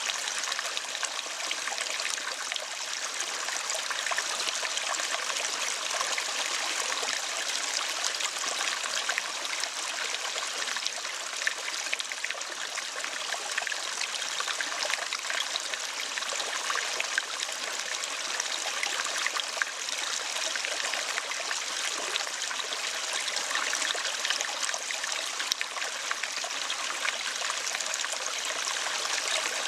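Steady running water, a small stream trickling with an even, unbroken rush.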